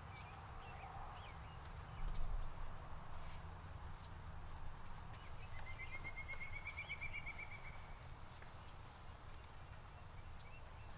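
Songbirds calling: a short, very high chirp repeats about every two seconds, and a rapid trill of even notes lasts about two seconds midway. Under them runs a low steady rumble, with a dull thud about two seconds in.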